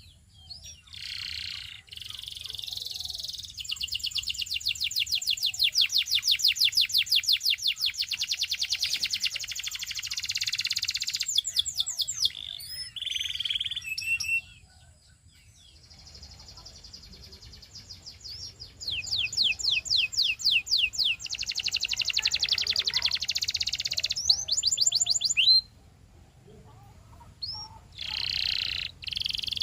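Domestic canary singing long phrases of fast trills, rapidly repeated high notes, with brief pauses between phrases.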